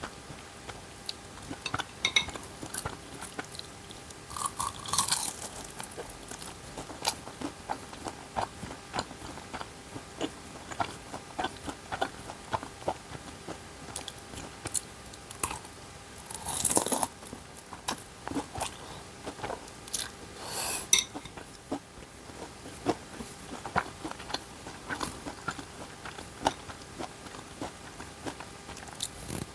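Close-miked eating sounds of a person chewing and biting ramen noodles and dumplings: many small clicks, with a few louder, longer bursts.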